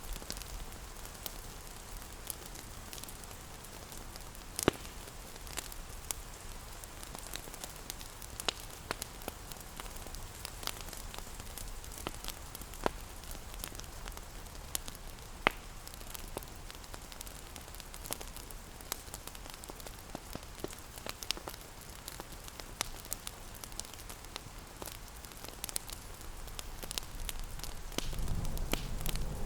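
Ambient mix of steady rain hiss and a crackling wood fire, with frequent sharp crackles and a few louder pops. A low rumble swells near the end.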